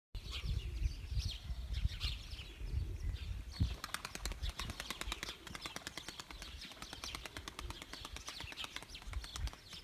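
Birds chirping over a low wind rumble on the microphone, with a fast run of wingbeats, about ten a second, starting near four seconds in and lasting a couple of seconds.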